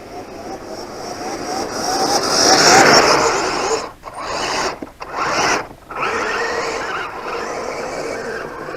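Kyosho Blizzard radio-controlled snowcat driving through snow: its electric motor whines and its tracks scrape and churn. The sound swells to its loudest about three seconds in, cuts out briefly twice as the throttle is let off, then runs on steadily.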